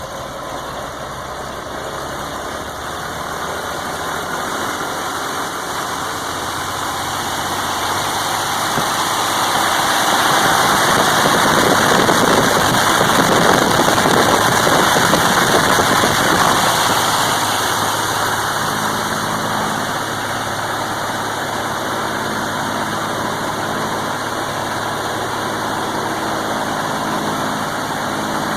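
Continental GO-300 geared six-cylinder aircraft engine and propeller on a ground run-up: the engine noise builds over about ten seconds, holds at its loudest for several seconds, then eases back to a steady lower speed.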